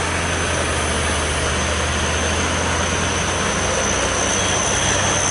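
Heavy truck engine running steadily under a broad road noise, with a thin high whine held above it.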